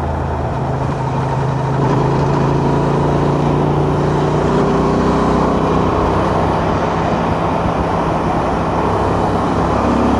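Honda Transalp's twin-cylinder engine running steadily under way, with a haze of wind and road noise. About two seconds in the engine note shifts and gets slightly louder.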